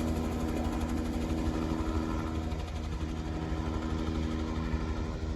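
Small airplane's piston engine running steadily, slowly getting quieter.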